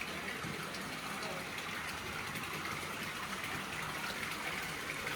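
Steady rush of flowing, gushing water, with people talking indistinctly in the background.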